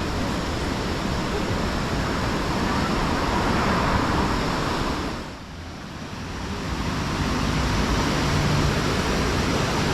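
Whitewater rapids of Nantahala Falls rushing with a steady, loud roar of water, dropping briefly a little past halfway before coming back up.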